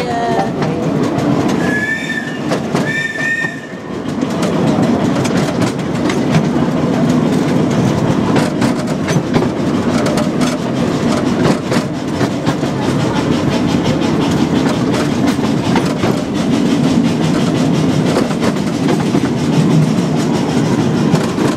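Small-gauge passenger train running on its track: a steady rumble with wheels clattering on the rails. About two seconds in, the locomotive's whistle gives two short toots.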